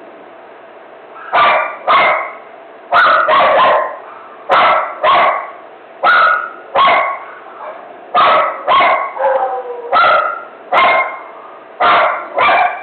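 Dog barking in a frenzy: loud, sharp barks in quick pairs and short runs, starting about a second and a half in and going on without let-up.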